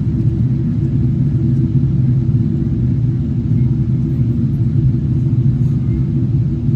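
Steady low rumble of a Boeing 777-300ER airliner, unchanging in pitch and level.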